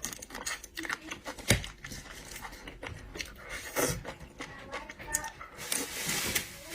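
Scattered clicks, taps and rustling from shellfish being handled and eaten at the table, with one sharp knock about a second and a half in and a longer rustle near the end.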